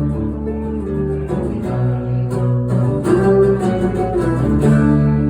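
Live acoustic band music without vocals: acoustic guitar chords strummed and ringing over a steady low bass part.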